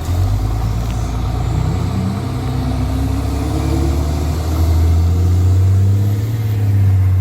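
Straight-piped Cummins C8.3 diesel in a school bus pulling under load, loud and throaty, its pitch climbing over the first few seconds and then holding steady and loud.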